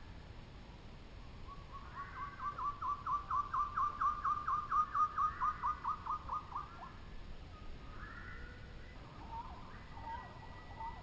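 A bird calling a long run of quick, evenly spaced notes, about six a second, for some five seconds, followed by a few scattered calls near the end.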